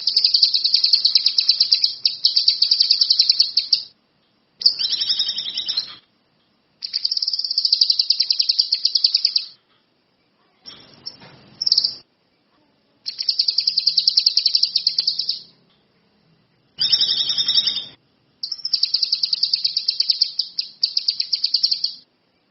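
A kinoi songbird singing vigorously: about seven phrases of rapid, high, chattering notes, each lasting one and a half to four seconds, with short pauses between them.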